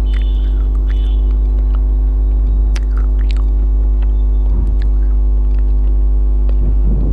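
A steady low electrical hum with many overtones, loud throughout. Over it come scattered soft clicks and wet smacking of someone chewing a mouthful of biryani.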